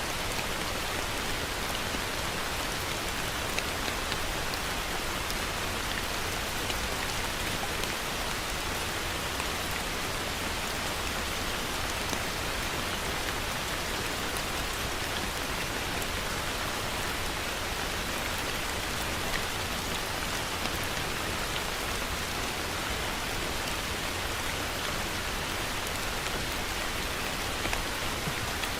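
Heavy rain falling steadily, an even hiss with the odd sharper drop tick.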